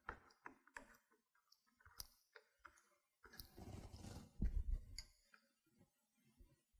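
Faint clicks and light handling sounds of small metal parts worked by hand, as a trunnion is pressed and threaded into the stainless steel ball of a fire hose nozzle. A few soft thumps come between about three and five seconds in.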